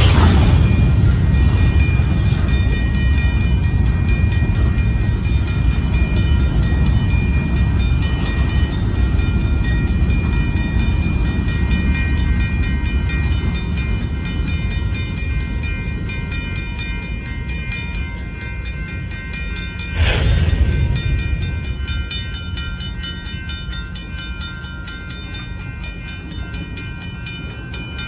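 Freight train of covered grain hopper cars rumbling over a road grade crossing; the rumble fades as the last cars pass. Crossing-signal bells ring steadily throughout. There is a brief louder whoosh about two-thirds of the way through.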